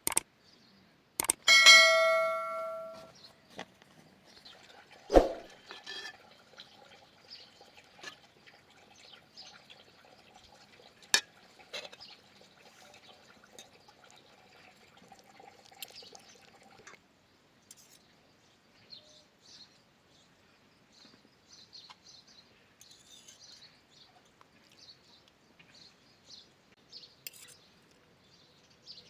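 A metal dish or pot struck once, ringing out for over a second, then a sharp knock and scattered light clinks of kitchenware.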